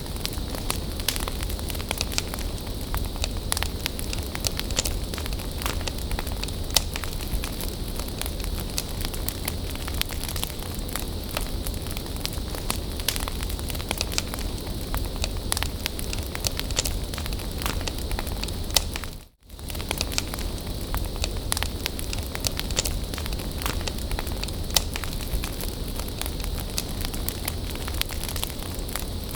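Bonfire burning with a steady hiss and frequent sharp crackles and pops. The sound cuts out for an instant about two-thirds of the way through.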